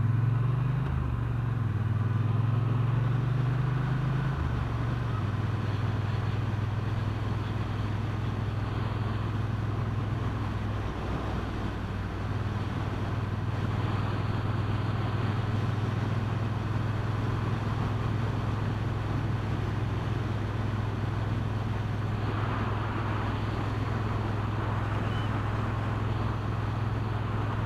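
Motorcycle engine running while riding along a road. The low engine note shifts a few times in the first four seconds, then holds steady.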